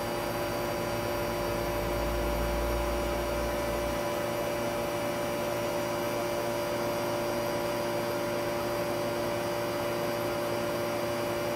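Air conditioning of a Smart EQ fortwo running while refrigerant is charged into it: a steady hum with a constant whine from the compressor and fan. A low rumble swells in the first few seconds and then drops away.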